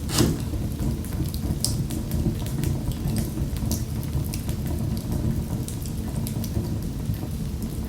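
Wood fire crackling in a fireplace: frequent small pops and snaps over a steady low rumble of the flames, with one sharper pop right at the start.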